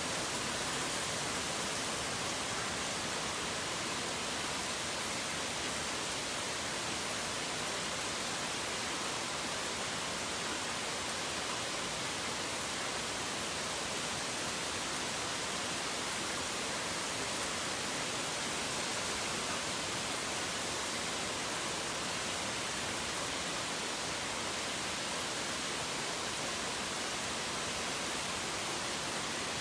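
Steady rain falling, an even, unbroken hiss with no separate drops, thunder or birds standing out.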